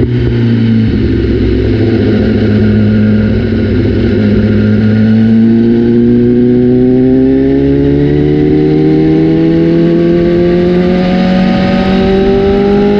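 BMW S1000RR inline-four superbike engine running through a new Austin Racing exhaust; the note drops briefly near the start, then climbs slowly and steadily as the revs rise.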